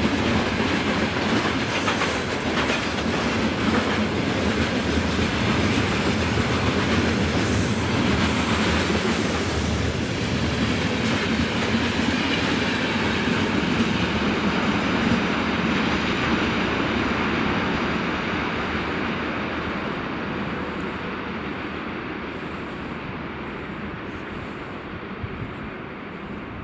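Freight train rolling past, its wagon wheels clattering over the rail joints. About two-thirds of the way through, the sound begins to fade steadily as the train recedes.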